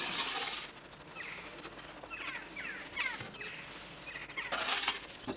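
Birds calling outdoors: a run of quick, falling chirp notes in the middle, with two brief hissing rushes of noise, one near the start and one near the end.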